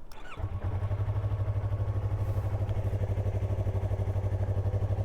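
Yamaha R3 motorcycle's parallel-twin engine starting about half a second in and settling straight into a steady, evenly pulsing idle.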